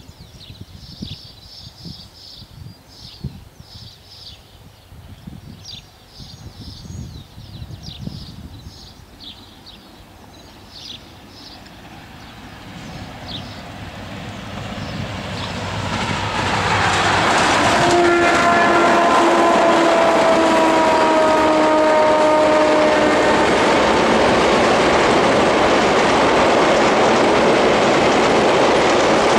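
Birds chirping, then a diesel-hauled passenger train approaching and growing steadily louder. About two-thirds of the way in, the locomotive sounds a long multi-tone horn whose pitch drops slightly as it goes by. The locomotive and coaches then run past close and loud to the end.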